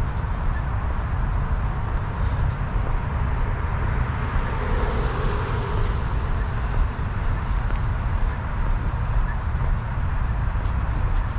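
Steady low wind rumble on the microphone during an outdoor walk, with a vehicle passing by, swelling and fading about four to six seconds in.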